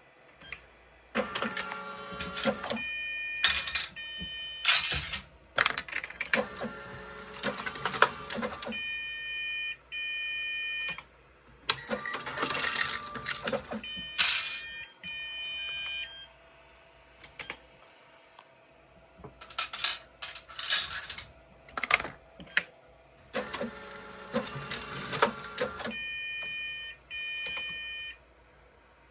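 Toshiba TEC automatic change machine working through about four cycles. Each cycle is a burst of mechanical whirring and clattering as it takes in and pays out cash, followed by pairs of short electronic beeps.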